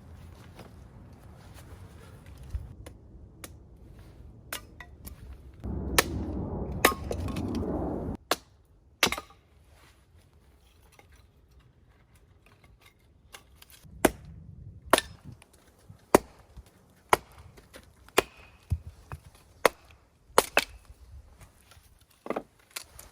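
Firewood being chopped: sharp woody knocks at roughly one a second, with a two-second burst of rough noise about six seconds in.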